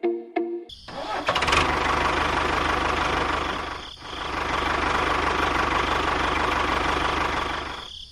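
A small motor running steadily with a low hum under a hissing noise. It dips briefly about halfway through and stops just before the end. A snatch of music plays before it starts.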